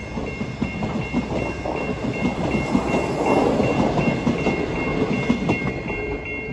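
Passenger cars of a train running past over the rails, their wheels rumbling and clicking, loudest about halfway through. A high ringing tone pulses steadily, about three times a second, over the top.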